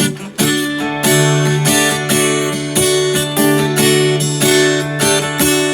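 Acoustic guitar strumming chords in a steady rhythm, with a brief break just after the start.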